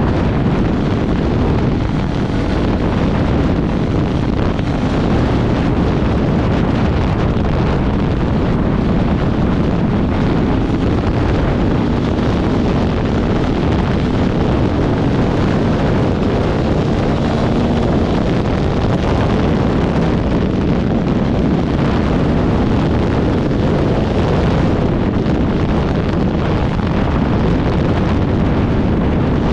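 Off-road motorcycle engine running under way, its pitch wavering slightly as the throttle changes, under heavy wind noise buffeting the microphone.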